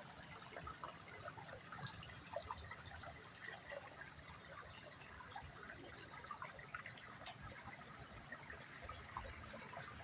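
A steady, high-pitched chorus of insects, with a shallow creek trickling and babbling over stones beneath it.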